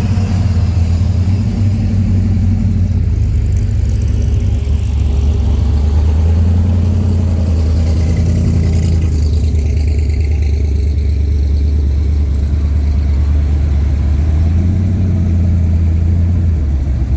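Car engine running with a loud, deep, steady rumble.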